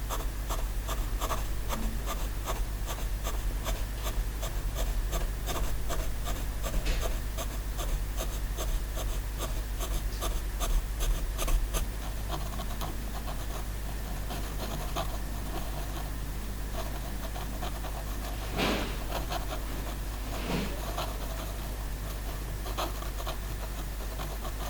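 Pen scratching on paper in many short drawing strokes, over a steady low hum.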